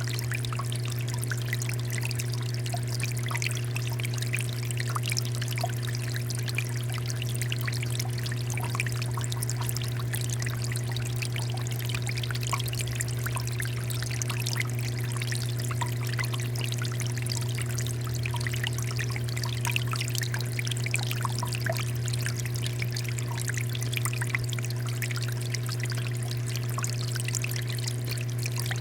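Water fountain running: water pouring and splashing steadily, over a steady low hum.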